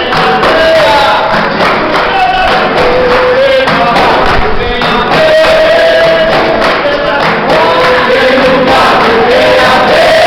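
Capoeira roda music: voices singing long held, gliding notes in a group over steady, rhythmic percussion.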